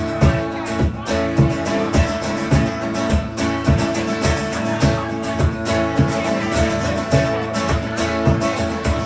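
Guitar strummed in a steady rhythm with a regular low beat: the instrumental opening of a song played live, before the singing comes in.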